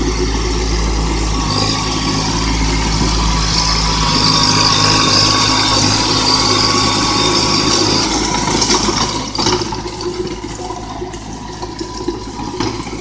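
Small tractor's engine running steadily, a little quieter from about nine seconds in.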